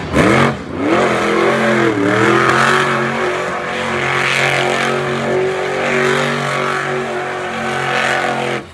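Monster truck engine revving hard, its pitch dipping and climbing a few times, then held at a steady high note before it cuts off abruptly.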